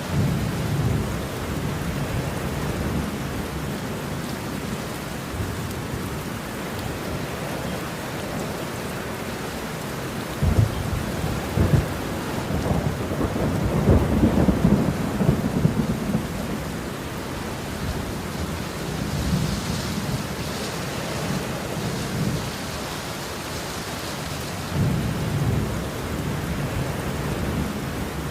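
Steady rain with rolling thunder; the rumbles swell loudest from about ten to sixteen seconds in, with a weaker roll near the end.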